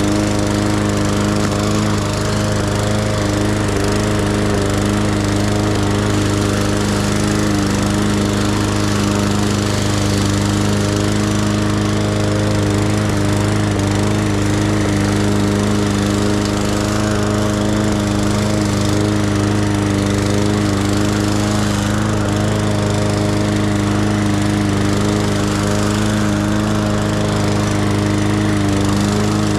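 Lawn mower engine running at a steady speed, a constant drone throughout.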